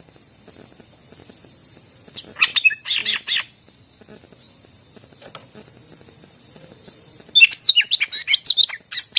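Green leafbird (cucak ijo) singing. A short burst of rapid, high chirping notes comes about two seconds in. After a pause, a dense, fast run of varied, sliding whistles and chatters starts near the end. This is a master song of the kind played to provoke other leafbirds into singing.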